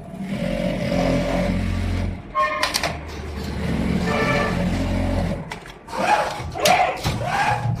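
JUKI automatic pocket sewing machine running with a steady low hum that pauses briefly just past two seconds, then sharper clicks and clatters from the machine near the end.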